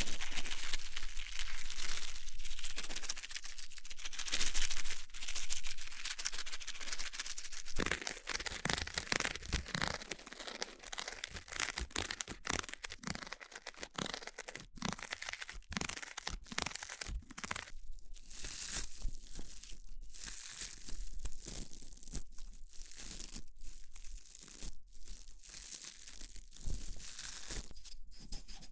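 Close-miked ASMR trigger sounds: about eight seconds of dense crinkling, then a quick, uneven run of small clicks and taps.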